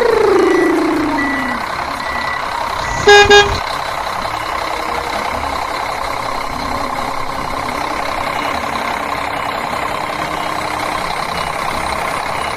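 Two short, loud toots from a toy dump truck's electronic horn about three seconds in, over a steady hum of its running motor.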